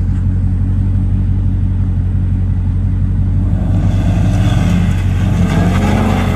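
V8 muscle car engine idling with a deep, steady rumble, then revving hard and climbing in pitch from about four seconds in.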